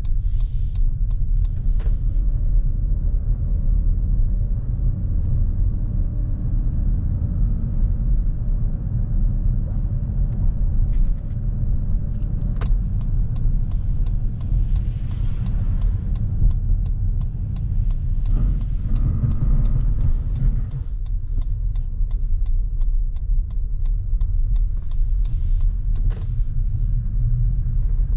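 Steady low rumble of a 2023 Lexus NX350h hybrid SUV driving, mostly tyre and road noise, with a faint steady hum and a few light clicks.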